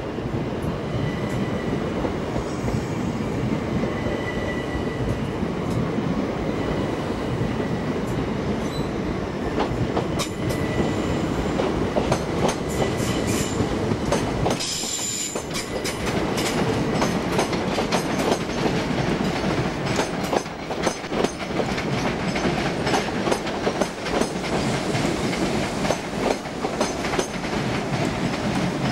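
Electric multiple-unit trains running through a station over pointwork. In the first half there is a thin, high wheel squeal. After a sudden break near the middle, the wheels clatter over rail joints and points in a quick run of clicks.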